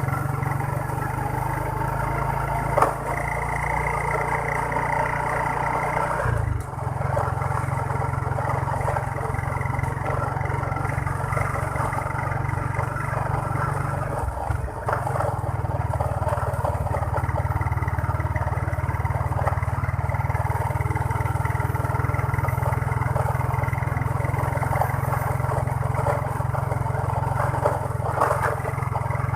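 Motorbike engine running on the road, with a steady low rumble of road and wind noise that dips briefly twice.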